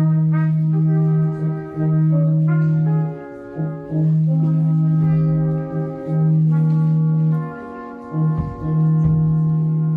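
Brass quartet playing slow, sustained chords. A low bass voice holds long notes with short breaks between them, while the upper voices shift harmony above it.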